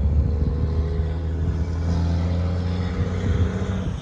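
A motor vehicle's engine running with a steady low hum that fades off near the end.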